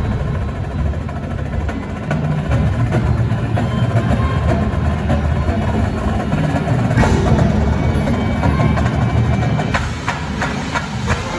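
Marching band playing, with the percussion section to the fore: drums and sharp, wood-block-like hits over a full, continuous band sound.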